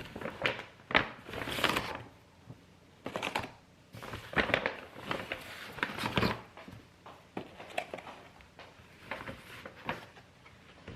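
Close-up handling noise: irregular clicks, light clatter and crinkling rustles in uneven clusters, with short quiet gaps.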